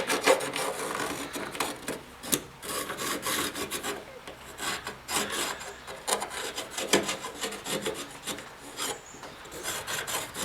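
Irregular scratching and rubbing strokes of a pattern being traced onto a sheet of 18-gauge steel for a rust-repair patch.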